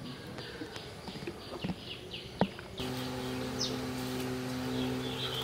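A bird chirping in a rapid series of short high calls, each dropping in pitch, about three a second. About three seconds in they cut off and a steady low hum takes over.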